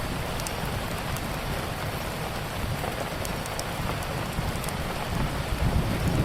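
Steady rain with a low rumble underneath, and sparse sharp crackles of a wood fire scattered through it.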